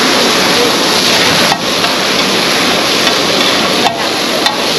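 Chicken pieces frying on a large flat metal pan over a gas flame: a loud, steady sizzle, with a few sharp clacks of the cook's metal spatulas against the pan, about a second and a half in and twice near the end.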